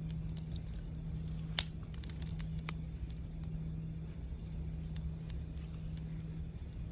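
Campfire burning with scattered sharp crackles and pops over a low steady hum, one pop standing out about a second and a half in.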